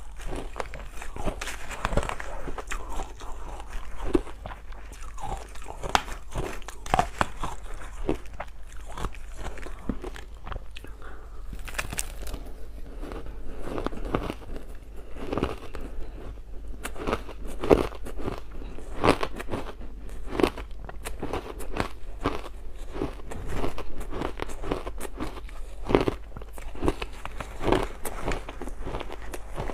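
Ice being bitten and crunched between the teeth, then chewed: a steady run of irregular sharp cracks and crunches, several a second.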